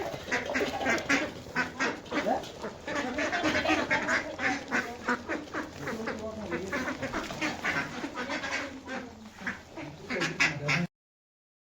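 A flock of Indian Runner ducks quacking, many short calls overlapping. The sound cuts off suddenly near the end.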